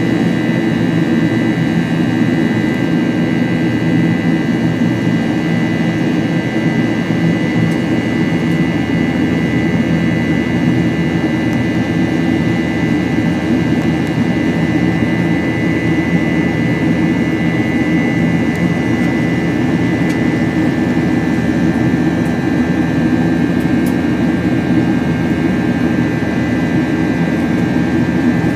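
Boeing 737-8's CFM LEAP-1B jet engines heard inside the passenger cabin during the climb after takeoff. A steady, loud engine and airflow roar, with several high steady whining tones from the engines' fans held on top.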